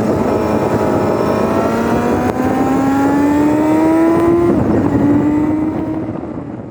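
Exhaust note of a Kawasaki Z900RS inline-four through an SP Tadao POWERBOX full 4-in-1 titanium exhaust, sped up to double speed. The engine pulls with its pitch rising steadily, shifts up about four and a half seconds in, then holds a steady note as the sound fades out near the end.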